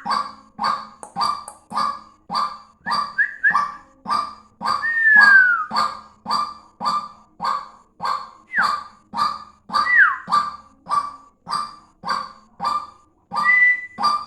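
Caged white-breasted waterhen (wak-wak bird) calling vigorously: a steady run of repeated short calls, about one and a half a second, with a few whistled notes sliding down in pitch among them.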